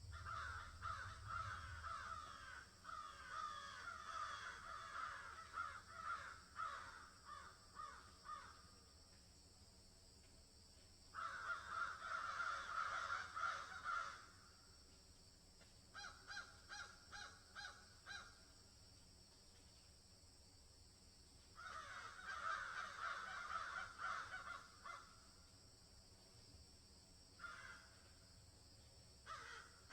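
Birds calling in repeated bouts a few seconds long with quiet gaps between. One bout is a quick run of about five calls a second. A faint steady hiss runs underneath.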